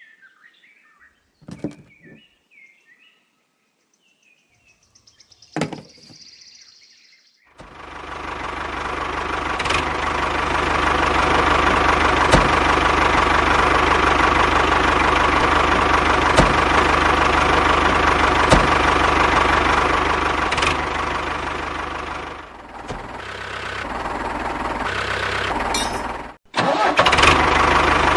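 A few soft clicks, then a motor starts about eight seconds in, builds up over a couple of seconds and runs steadily. Near the end it drops away, cuts out for a moment and starts running again.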